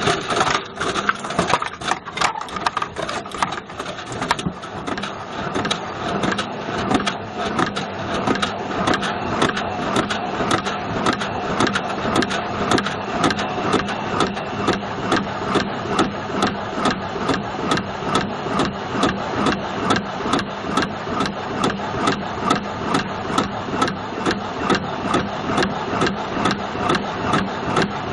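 Beko washing machine drum turning with a Bush VCR807 video recorder inside, the recorder knocking against the drum over the motor's hum. The knocks are irregular at first, then settle into a steady rhythm of about two a second.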